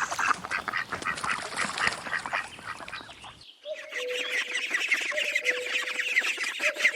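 Ducks quacking, several birds calling over one another. About three and a half seconds in, the recording cuts to a flock of rapid, higher-pitched calls with a steady tone underneath.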